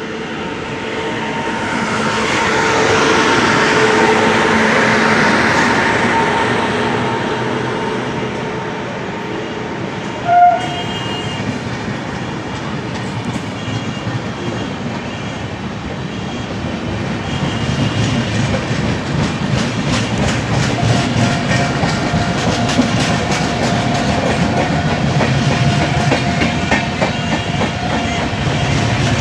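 A train running past, its rumble swelling over the first few seconds. A short horn toot comes about ten seconds in. Through the second half, the wheels clatter over the rail joints in quick, even clicks.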